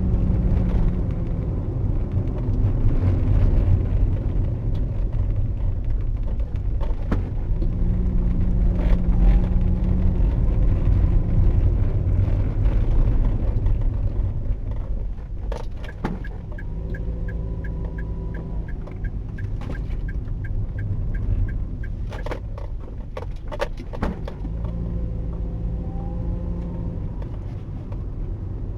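Car driving along a road: a steady low rumble of engine and tyres, with the engine note humming more strongly three times and a few sharp clicks and knocks in the second half.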